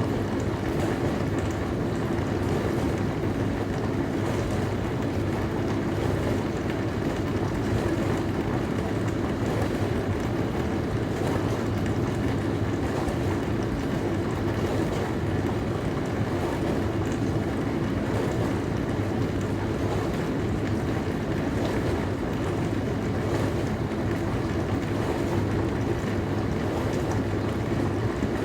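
Dishwasher running mid-cycle: a steady low motor hum with water spraying and swishing inside the tub.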